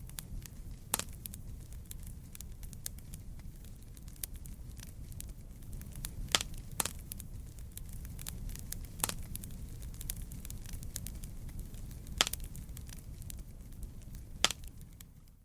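Wood campfire burning: a steady low rumble of flames with constant small crackles and about six sharp pops from the burning wood.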